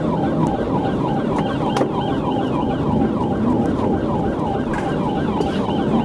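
Police car siren on a rapid yelp, short falling sweeps repeating about four times a second, over steady vehicle road noise.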